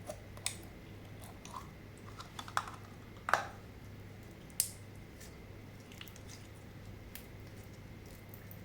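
Slime being squished and worked by hand, with a few scattered sticky pops and clicks, the loudest about three seconds in, over a low steady hum.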